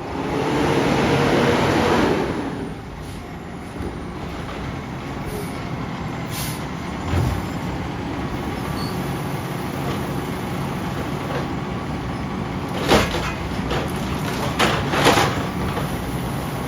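Garbage truck: a loud burst of air hiss for the first couple of seconds, then the truck's engine running steadily, with a few sharp knocks near the end.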